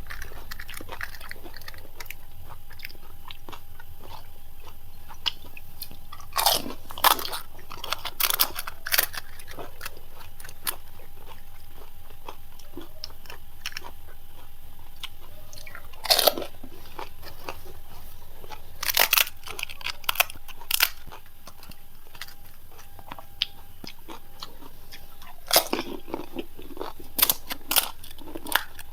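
Crisp, hollow panipuri shells crunching as they are bitten and chewed, in four bursts of sharp crunches several seconds apart.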